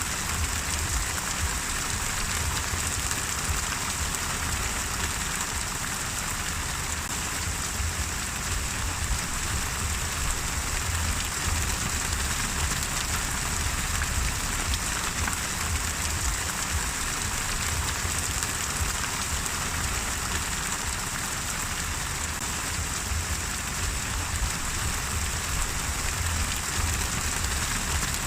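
Steady rain falling on a surface, an even patter with no let-up and a low rumble beneath it.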